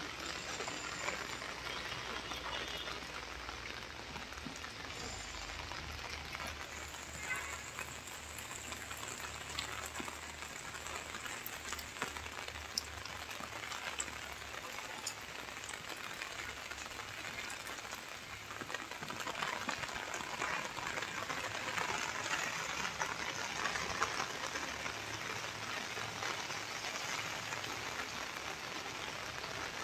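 Steady rain falling, a continuous hiss of water with scattered drop ticks, over a low rumble for the first several seconds. The rain grows louder about two-thirds of the way through.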